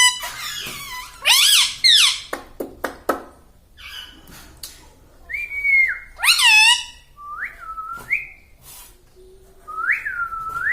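Pet parrot whistling and calling: short whistles that slide up and down in pitch, two loud calls about a second and a half in and again past the middle, and a longer rising whistle near the end, with a few clicks in between.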